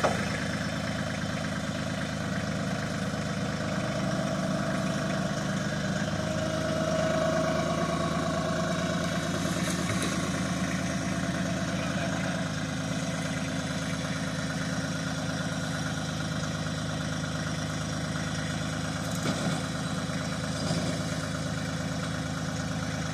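Tractor engine running steadily at a low, even pace.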